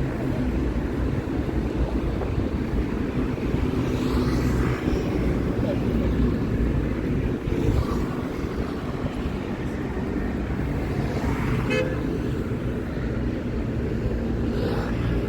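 City street traffic: a steady low rumble of passing cars, with a short horn toot about twelve seconds in.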